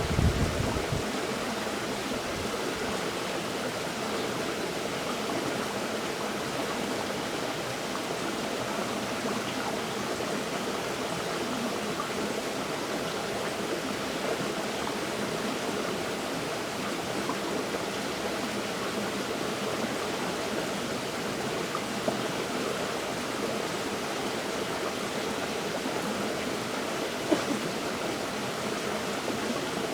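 River water flowing in a steady, even rush. A low rumble in the first second dies away, and there is a faint tick near the end.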